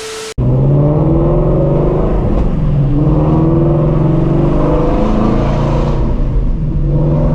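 Straight-piped Ford Mustang Shelby GT350's 5.2-litre flat-plane-crank V8, breathing through long-tube headers, running loud under acceleration, its pitch rising several times as it pulls. A brief hiss with a steady tone cuts off suddenly just at the start.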